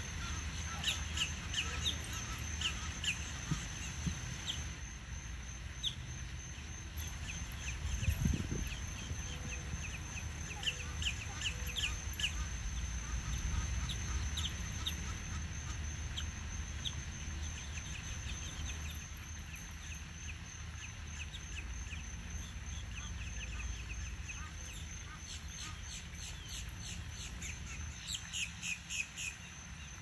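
Birds chirping: short high calls repeating many times, in clusters near the start and again near the end, over a steady high-pitched whine and a low background rumble.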